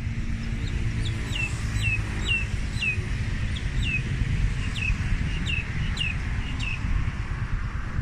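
A bird repeating short, falling chirps about two a second, starting about a second in and stopping near the end, over a steady low rumble of wind on the microphone.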